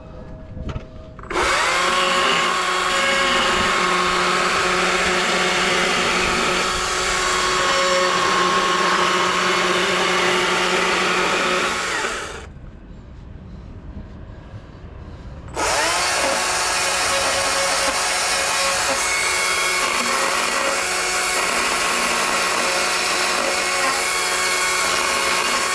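Handheld electric power tool running at a steady speed in two long runs of about ten seconds each. Each run spins up quickly with a short rising whine, holds a constant pitch and cuts off abruptly.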